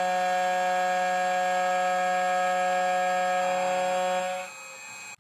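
CNC key cutting machine running as it cuts the lateral side of a key blank, a steady even-pitched whine. It falls away to a quieter level about four seconds in.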